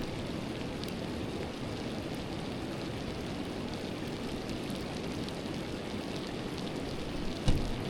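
River water flowing in a steady rush, with faint scattered ticks of water. A brief low thump near the end.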